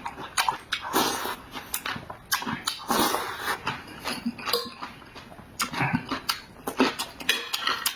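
Close-miked eating noises: a quick, irregular run of wet chewing smacks and crunches.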